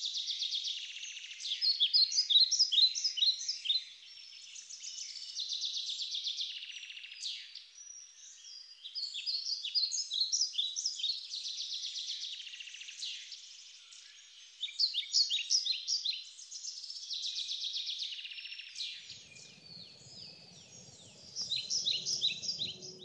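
Birds singing: high chirps and rapid trills in repeated phrases of a second or two, with short pauses between. A faint low rumble joins near the end.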